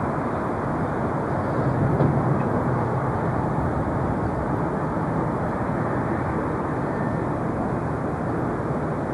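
Jet airliner engines heard from across the airport as a steady rushing noise, swelling slightly about two seconds in.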